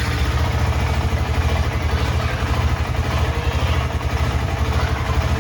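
KTM 250 Adventure's single-cylinder engine idling steadily, just after catching. It is a start test after the bike has sat for about four hours, made because the bike has been starting only after several attempts.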